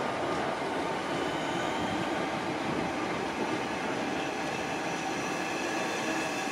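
Southeastern electric multiple-unit train running along a station platform, a steady rumble of wheels on the track; a faint high whine joins about halfway through.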